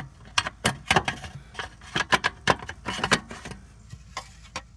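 A metal shield under a car being worked loose and pulled off: a quick, irregular run of sharp metallic clicks, clanks and rattles that thins out after about three and a half seconds.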